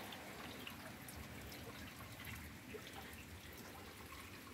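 Light rain falling, faint and steady, with scattered small drips.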